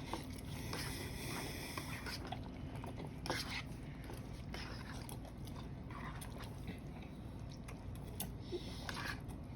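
Two people eating noodles fast: scattered chewing and eating noises with short clicks and smacks, no talking.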